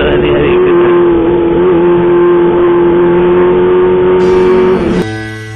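Kawasaki ZX-25R's 250 cc inline-four running at steady high revs through a loud home-made aftermarket exhaust, then cut off abruptly by music about five seconds in.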